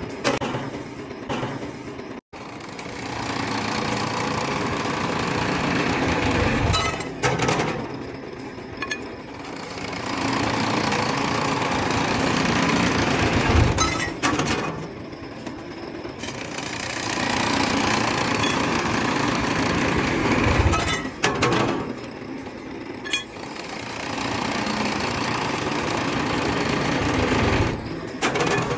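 CNC metal spinning and shrinking machine working a metal part in repeated cycles: four stretches of loud, rough mechanical noise, each a few seconds long, with quieter gaps holding scattered clicks between them.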